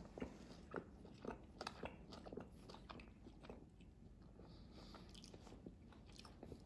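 Faint chewing of a mouthful of homemade hash brown, a string of small, irregular crunches.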